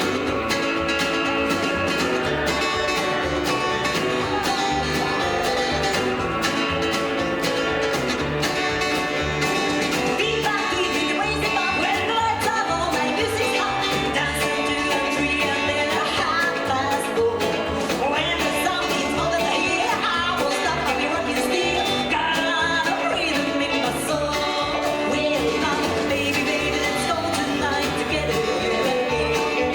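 Live rockabilly band playing an uptempo dance number with singing over guitar and a steady driving beat.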